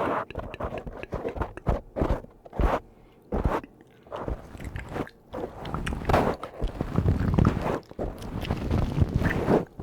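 A brush sweeping across a microphone, making a run of irregular scratchy, crunchy strokes. They come sparsely at first and close together from about halfway through.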